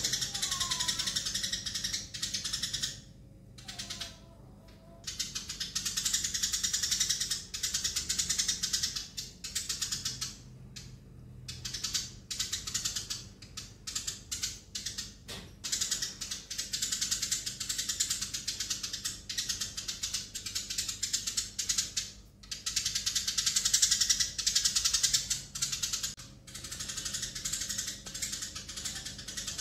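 Eurasian tree sparrows chattering: dense, rapid chirping in long bouts broken by a few short pauses.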